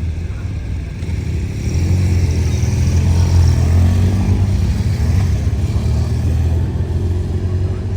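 Motor vehicles driving past close by: engine rumble and tyre noise that swell about two seconds in, are loudest around the middle, then ease off slightly.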